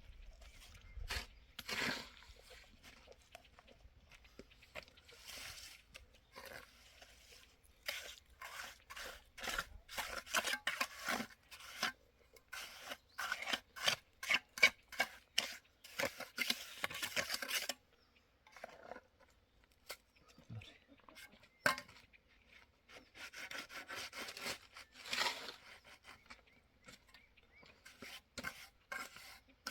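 Cement mortar being worked with a mason's trowel: runs of short, rasping scrapes, several a second, with pauses between the runs.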